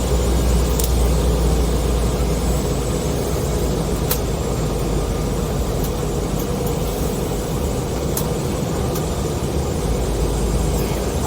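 Steady cabin noise of an Embraer E190 regional jet on final approach: a deep rumble of jet engines and rushing airflow, easing slightly about three seconds in. A few faint ticks or rattles sound over it.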